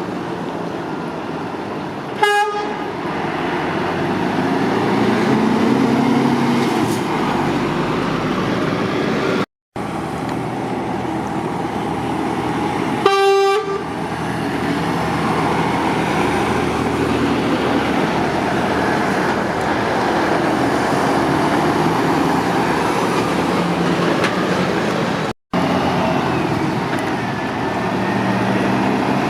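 Continuous motorway traffic, with lorry engines and tyre noise passing steadily. A vehicle horn gives two short toots, about two seconds in and again about thirteen seconds in. The sound cuts out twice very briefly.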